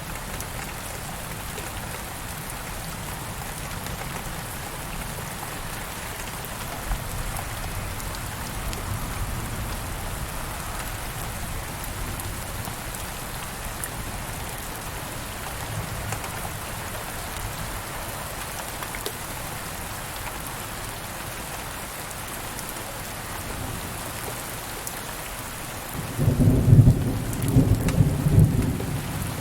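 Steady rain falling, with a low roll of thunder rumbling for about three seconds near the end.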